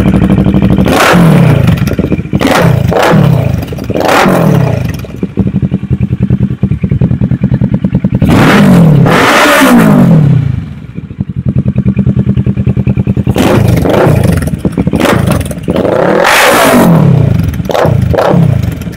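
Kawasaki ER-6f (Ninja 650R) parallel-twin engine through an HGM slip-on exhaust, idling and revved in a series of quick throttle blips. Each blip rises in pitch and falls straight back to idle. The blips come in clusters, with steady idle between them.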